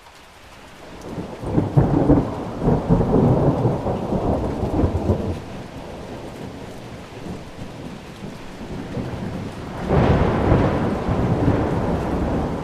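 Thunder rumbling over steady rain: a long roll builds about a second in and dies away after about five seconds, and a second peal breaks in suddenly near the end.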